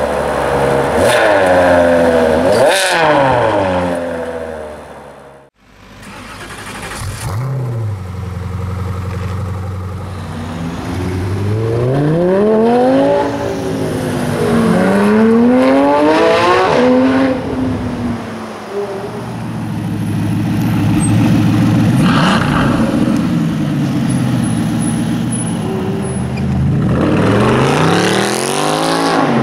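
High-performance car engines revving in a series of separate clips. A Ferrari 599's V12 is blipped twice, then the sound cuts off abruptly. After that a Lamborghini Gallardo's V10 revs up and down several times as it accelerates, and near the end a Mercedes C63 AMG's V8 revs as it pulls away.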